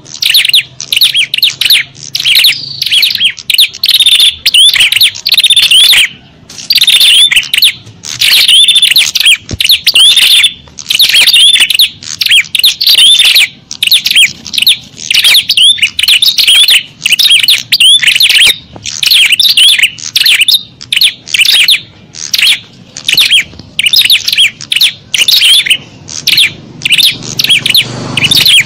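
Small songbirds chirping loudly and busily in a dense, unbroken chatter of quick, sweeping notes. This is a bird-lure recording of noisy small-bird calls, the kind played to attract small birds.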